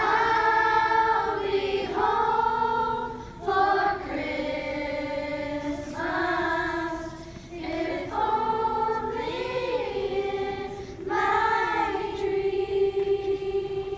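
Children's choir singing together in sustained phrases, ending on a long held note.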